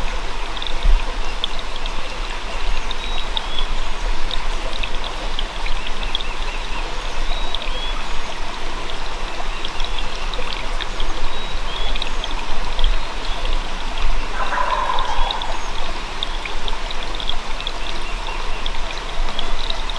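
Steady rush of running water, with small birds chirping throughout. A wild turkey gobbles once, about three-quarters of the way through.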